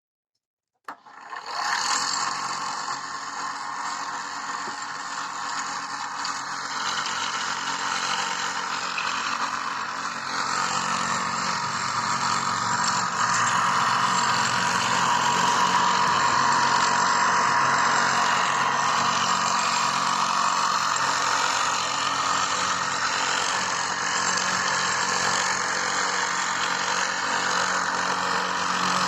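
Homemade chainsaw-chain sharpener switched on about a second in, its electric motor and grinding wheel then running steadily with a dense high whirring hiss.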